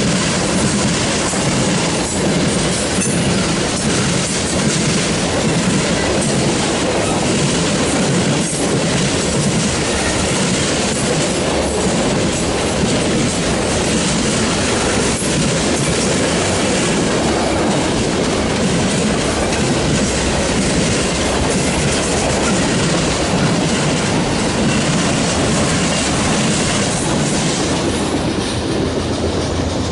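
Freight cars of a Norfolk Southern mixed freight train rolling past close by. Steady wheel clatter and rumble over the rail joints comes from tank cars, loaded centerbeam lumber flatcars and boxcars. Near the end the last car clears and the rattle thins out.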